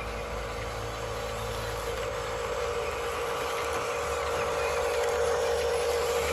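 Electric motor and gearbox of a radio-controlled construction model whining steadily, growing a little louder in the second half.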